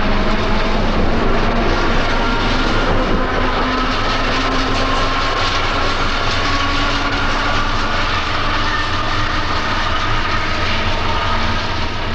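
Electric interurban train running, a steady loud rumble with a faint motor whine that rises slowly in pitch as it gathers speed.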